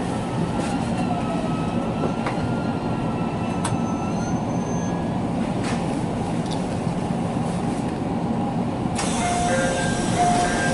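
Steady hum and rumble from a JR Tokaido Line electric commuter train standing at a station, heard from just behind the driver's cab. Near the end a brighter hiss and a few short tones come in.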